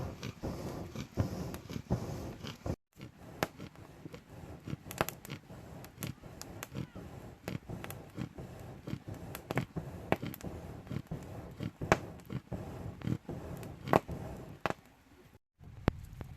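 Wood fire burning, with irregular crackles and sharp pops over a low rumble.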